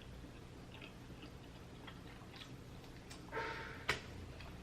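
Close-miked eating sounds from a seafood boil: faint scattered clicks of chewing and handling food, a short noisy mouth sound a little past three seconds in, then one sharp click.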